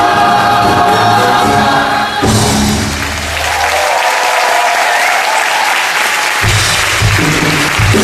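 A chorus sings with the orchestra, stopping about two seconds in. The audience then applauds for about four seconds. The orchestra starts up again near the end.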